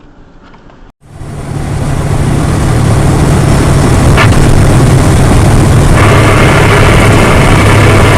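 Loud vehicle engine and road noise that swells over the first couple of seconds after a sudden start and then runs steadily, with a low hum underneath.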